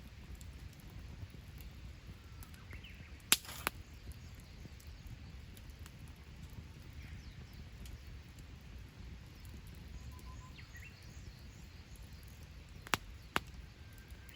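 Burning firewood in a campfire giving sharp pops: a loud pair a little over three seconds in and another pair near the end, over a low steady fire hiss. Faint bird calls chirp now and then.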